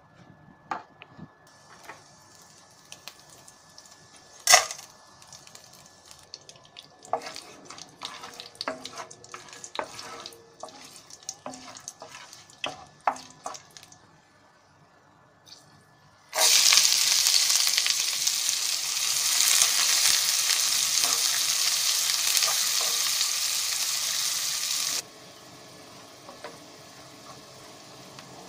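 Whole spices in hot oil in a nonstick wok, stirred with a wooden spatula: scattered knocks and light crackles, with one sharper knock about four seconds in. About 16 seconds in, a loud, even frying sizzle starts suddenly as sliced onions fry in the oil. It drops to a quieter steady sizzle near the end.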